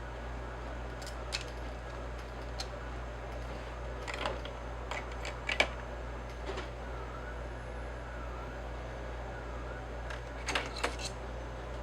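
Scattered sharp clicks and light knocks of tools and small parts being handled on a workbench, the loudest about five and a half seconds in, over a steady low hum.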